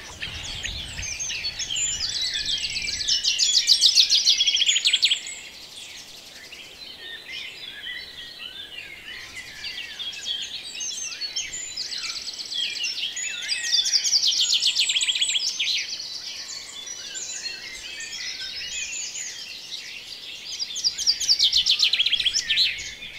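Chorus of small songbirds: many overlapping chirps and whistles, with a loud, fast rattling trill that comes three times, a few seconds in, midway and near the end.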